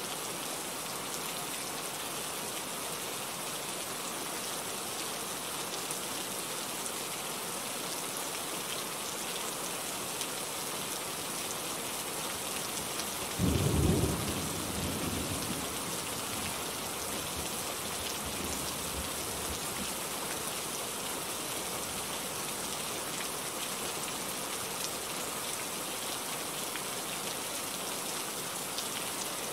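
Steady rain falling on foliage. About halfway through, a short, loud, low rumble of thunder breaks in and dies away over a couple of seconds.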